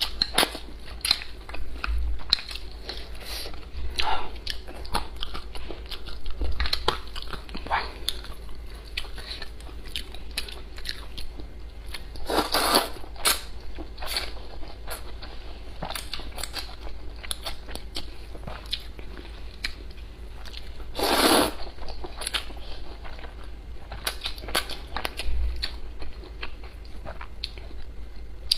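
A person eating close to the microphone: steady biting and chewing with many small wet clicks, and two longer, louder mouthfuls about twelve and twenty-one seconds in. A steady low hum runs underneath.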